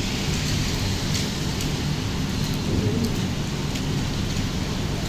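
Heavy rain falling steadily, with a low rumble underneath and scattered drops ticking close by.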